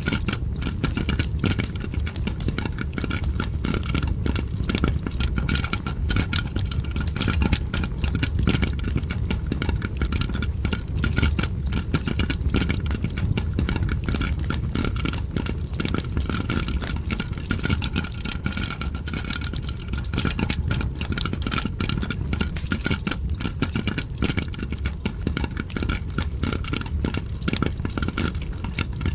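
Popcorn popping mixed with a crackling fire: dense, irregular pops and crackles over a steady low rumble.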